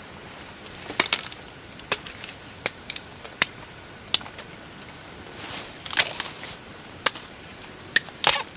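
Sharp woody snaps and cracks, about one a second, with short stretches of rustling: bamboo shoots being broken off during harvesting.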